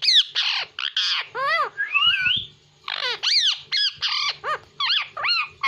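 A pet parrot squawking in a rapid series of short, harsh, high-pitched calls, many sliding up and down in pitch, with a brief pause about two and a half seconds in.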